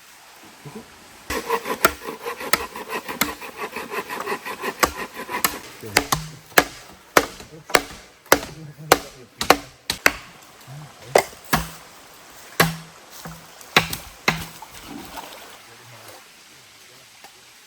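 A blade chopping bamboo: a long run of sharp chopping strokes, irregular but often about two a second, which stop a few seconds before the end.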